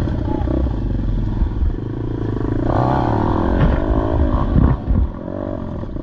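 Small-displacement pit bike engine running, its pitch rising and falling with the throttle through the middle, then dropping off briefly.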